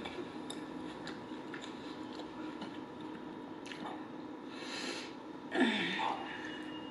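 Close-miked chewing of a mouthful of steak burrito bowl with the mouth closed: soft wet clicks and squishes. About five and a half seconds in comes a louder breath with a short falling hum.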